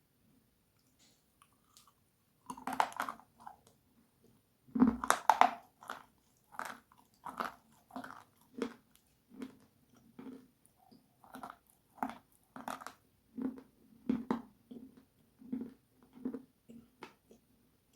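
Close-miked mouth biting into something hard and crunchy, with a louder crunch about five seconds in, then steady, evenly paced chewing crunches, about one and a half a second.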